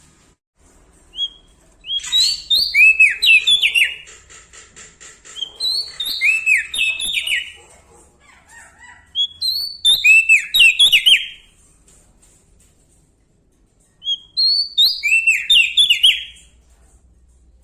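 Prenjak daun Lombok singing loudly in four bursts of quick, downward-slurring whistled notes, with short pauses between the bursts.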